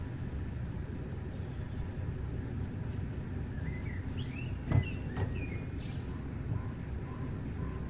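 Outdoor ambience: a steady low rumble with small birds chirping now and then, and two sharp knocks a little after halfway.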